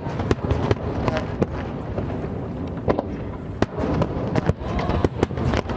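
Aerial fireworks display: a rapid barrage of sharp shell bursts and crackling bangs, several a second, over a continuous low rumble.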